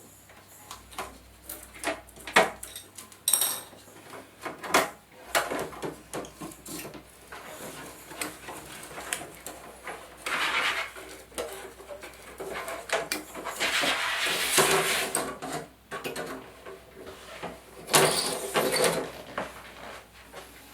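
Handling noises from TV parts being worked on during disassembly: a run of sharp clicks and knocks, with three longer scraping, rustling stretches about halfway through and near the end.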